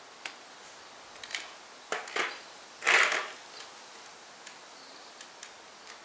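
Clicks and knocks of parts being handled on a Tamiya TGS nitro RC car while its stalled engine is being checked, with a louder scraping rustle lasting under half a second about three seconds in.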